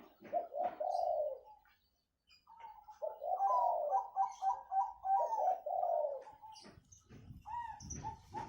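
Doves cooing in repeated phrases, with a pause about two seconds in and then a longer run of quick, rolling coo notes. Faint high chirps sit above, and a low rumble comes in near the end.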